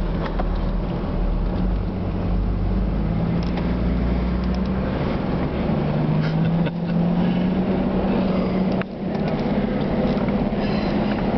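Off-road vehicle's engine running steadily, heard from inside the cabin as it drives down a sand dune; its note shifts a little about halfway through, with a few knocks and rattles from the vehicle.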